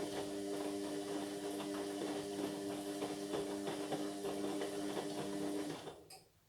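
Indesit MyTime washing machine running, a steady mechanical hum with small ticks and rattles over it, that stops fairly suddenly near the end.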